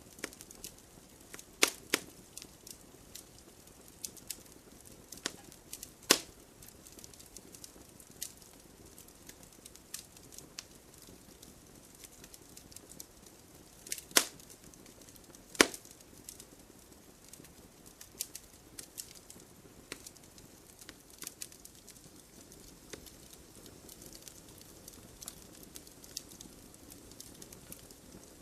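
Wood fire in a fireplace crackling, with a soft steady hiss under irregular snaps and a few louder pops.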